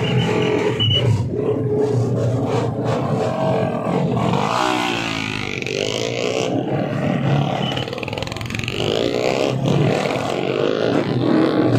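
Tuned 150cc four-stroke underbone racing motorcycles running at high revs on a track, with engine pitch sweeping up and down as bikes go by about four and nine seconds in.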